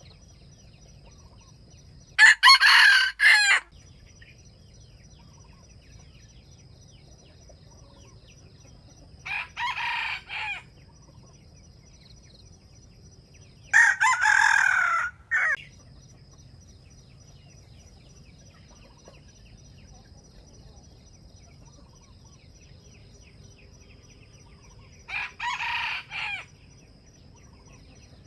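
Junglefowl roosters crowing four times, each crow about a second and a half long. A louder, nearer rooster and a fainter, farther one alternate, competing: a bait rooster and a wild rooster answering it.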